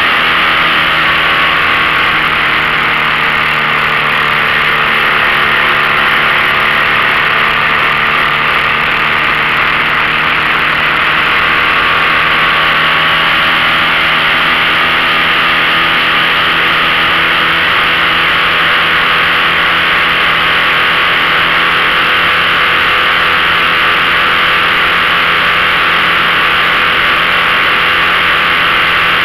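A 15 hp outboard motor pushing a small aluminium V-bottom boat under load, running steadily at a constant speed after a slight change in pitch in the first few seconds, with a strong steady hiss over it.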